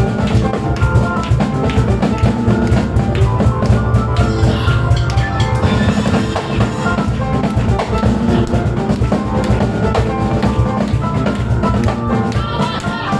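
Live instrumental music: piano played fast over drum kit and cajon, with a heavy, busy drum beat.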